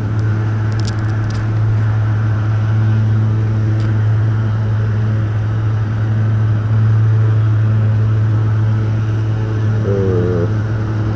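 Motorcycle engine idling steadily, a constant low hum that holds without revving.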